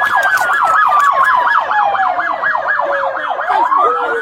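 Two police car sirens at once: one on a fast yelp, warbling up and down several times a second, and one on a slow wail that falls in pitch and climbs back up near the end.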